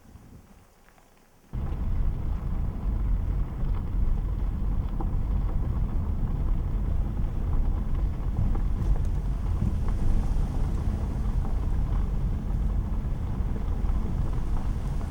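Steady low rumbling noise that cuts in abruptly about a second and a half in, after a quiet start.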